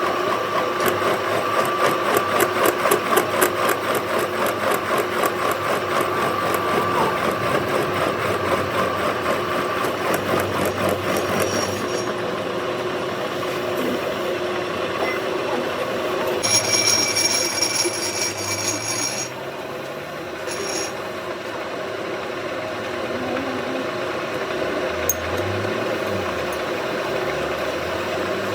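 Workshop machine tool running steadily while working metal, with fast even ticking and a held tone for the first third. A brief high whine comes about two-thirds of the way in, and the machine runs a little quieter after it.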